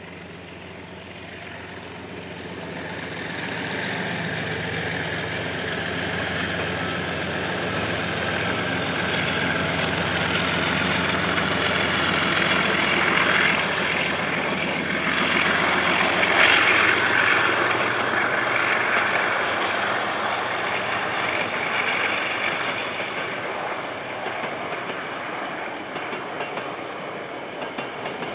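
A KiwiRail diesel-hauled train passing: the locomotive's engine builds over the first few seconds, then wheel-on-rail noise from the train grows loudest around the middle and slowly fades toward the end.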